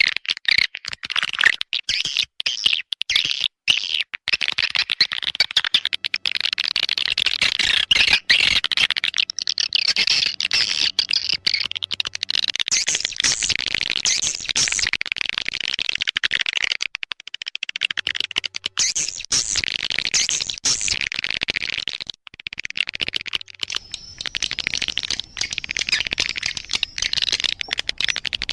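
Swiftlet lure call: dense, continuous chattering and twittering of many swiftlets, the kind of recording played to draw edible-nest swiftlets into a nesting house.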